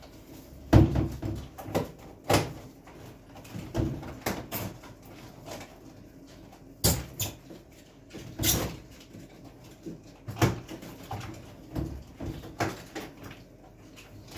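Irregular knocks and clicks from taking apart a Beko refrigerator's freezer compartment door: parts being handled, pried and set down, roughly one every second. The loudest knocks come about a second in and again near the middle.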